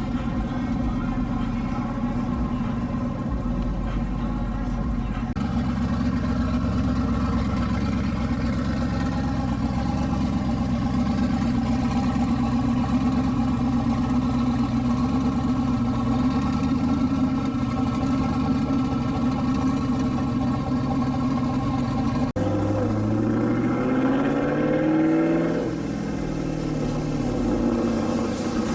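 Car engine running at a steady idle. After an abrupt change about 22 seconds in, an engine revs up and down a few times.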